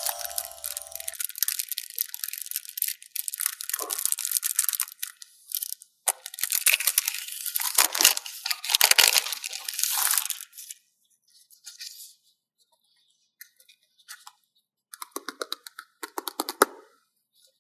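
Paper stickers being peeled off their backing sheet and handled: irregular crackling and tearing noises in dense stretches for about ten seconds, then short scattered crackles. The tail of a chime fades out in the first second.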